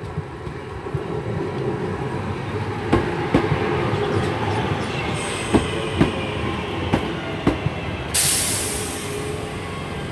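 Class 323 electric multiple unit pulling into the platform: steady rumble with sharp clicks of wheels over rail joints, then a sudden burst of air hiss about eight seconds in as it comes to a stand.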